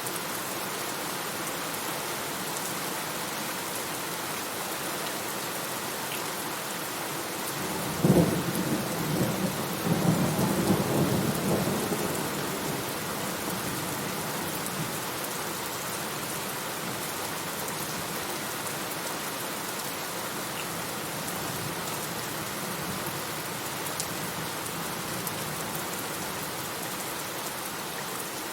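Steady heavy rain with a clap of thunder about eight seconds in that rumbles for several seconds before fading back into the rain.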